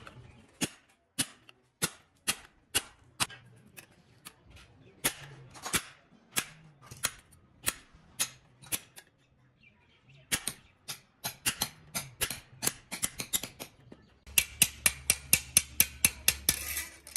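A series of sharp, separate knocks or strikes, about two a second, breaking off briefly about two-thirds of the way through. Near the end they come faster and louder, about three a second, over a low steady hum.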